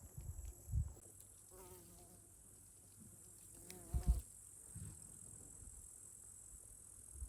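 Crickets chirping in a steady, high-pitched trill, with a few soft low thumps, the loudest about four seconds in.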